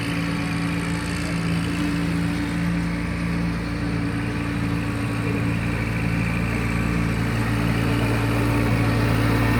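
Kubota compact tractor's diesel engine running at a steady speed, growing gradually louder in the second half.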